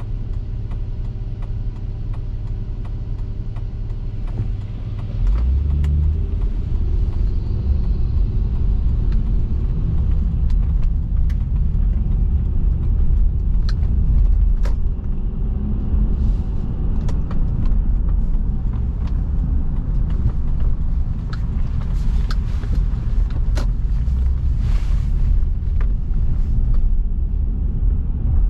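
Car driving, a steady low rumble of road and engine noise that gets louder about five seconds in as the car picks up speed, with scattered small clicks and rattles.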